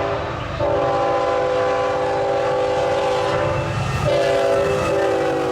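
Locomotive multi-chime air horn sounding in long blasts, with a short break about half a second in and another about four seconds in, over the low rumble of a freight train passing through town.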